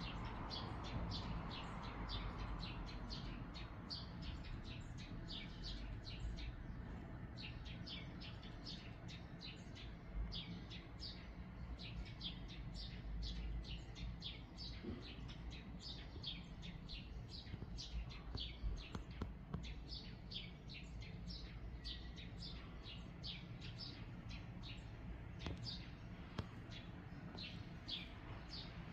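Small birds chirping: a steady run of short, high chirps, several a second, over a faint low rumble.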